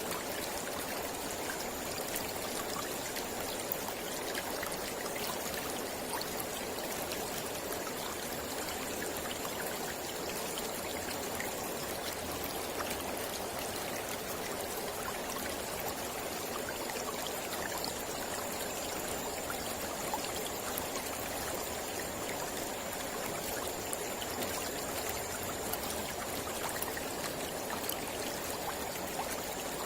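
Mountain river flowing over rocks: a steady rush of water with small splashes, even throughout.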